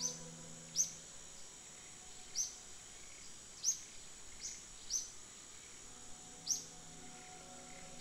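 A bird repeating a short, high chirp that falls in pitch, about eight times at uneven gaps of roughly a second, over a steady high whine.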